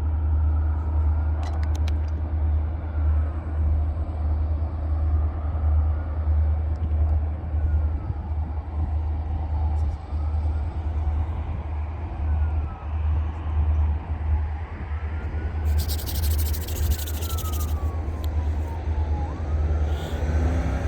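A freight train led by EMD SD40-2 diesel locomotives rumbling past, with a siren wailing faintly in the distance, rising and falling over and over. A brief loud hiss comes about three-quarters of the way through.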